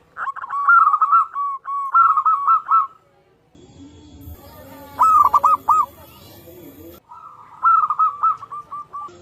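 Zebra dove (perkutut) cooing: three phrases of quick, bubbling coos, the first long and the other two shorter, as birds answer each other.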